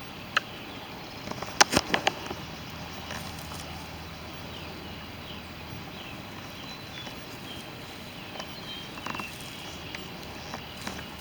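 Steady outdoor background hiss, with a quick cluster of sharp clicks or taps about two seconds in and faint short high chirps scattered through.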